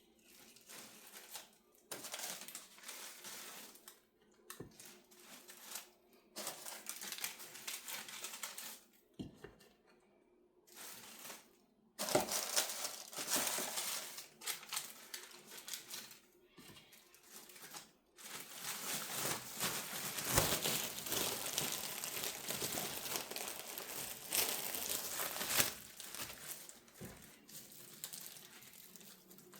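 Baking paper crinkling and rustling in irregular bursts as it is handled and laid between bread slices, with some tearing sounds; the handling is busiest in the second half.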